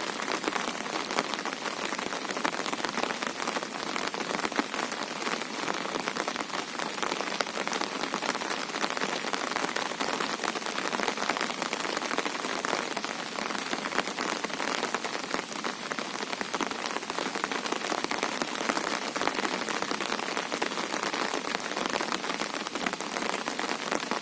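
Steady monsoon rain falling on a river, a dense, even patter of drops that does not let up.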